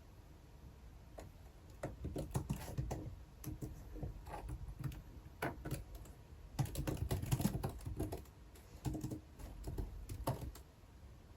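Typing on a computer keyboard: irregular key clicks in short bursts with brief pauses, starting about two seconds in and busiest about two-thirds of the way through.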